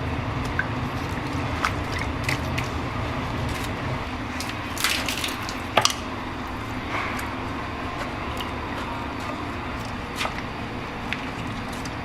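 A steady low mechanical hum with scattered clicks and knocks, and two louder clatters about five and six seconds in.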